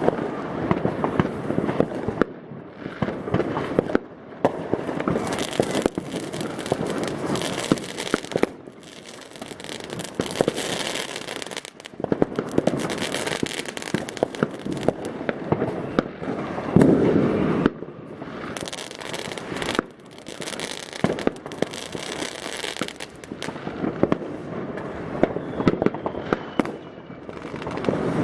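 New Year's Eve fireworks all around: a continuous, dense crackling of firecrackers and rockets, with many sharp bangs overlapping and a loudest cluster of bangs about two-thirds of the way through.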